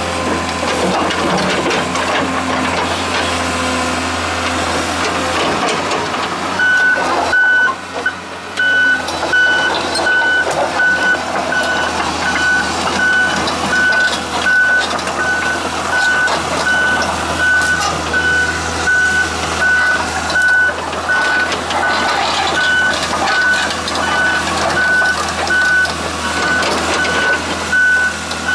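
Komatsu PC200LC-6 excavator running, with its diesel engine humming steadily; about six seconds in its travel alarm starts beeping, a single high tone repeating about twice a second, the sign that the machine is tracking.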